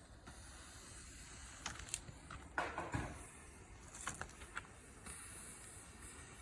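Wood campfire crackling: a handful of scattered sharp pops over a faint steady hiss, the loudest a little before the middle.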